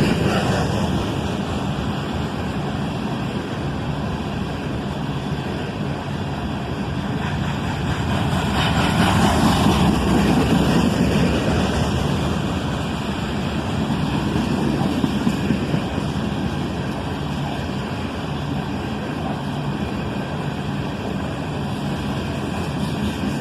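Loaded iron-ore freight cars rolling past, a steady rumble of wheels on rail that swells a little partway through.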